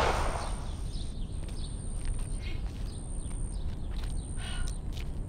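The echo of a gunshot dies away at the start, then birds give a few short, scattered calls over a low rumble.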